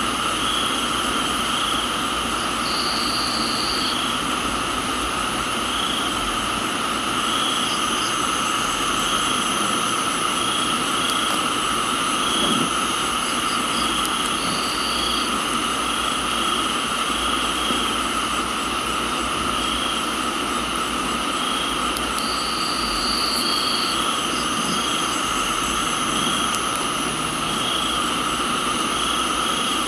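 A chorus of crickets and other insects: several steady trills at different pitches, one call pulsing about once a second, and a higher buzz that sounds now and then for a second or so. Under them runs an even hiss of steady rain.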